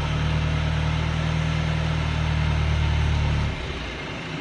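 Alfa Romeo Giulia's engine running under light load as the car reverses slowly, a steady low hum that drops off suddenly about three and a half seconds in.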